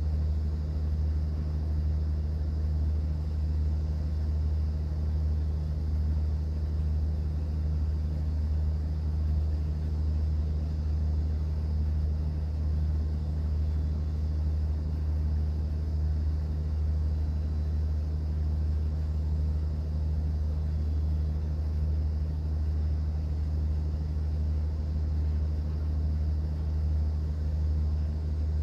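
Cruise boat's engine running steadily under way, a deep even drone with a second, higher hum above it and a light wash of noise over the top.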